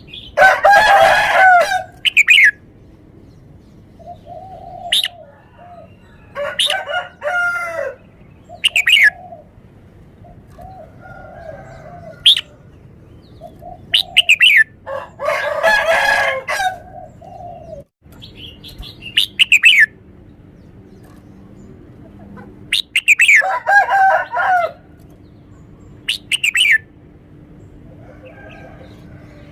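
Red-whiskered bulbul singing: four loud, rich warbled phrases of about a second and a half each, with short, sharp high whistled notes between them.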